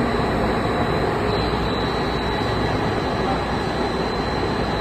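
Glass tempering furnace line running in a factory: a loud, steady rush of machinery and air noise with a thin, steady high whine over it.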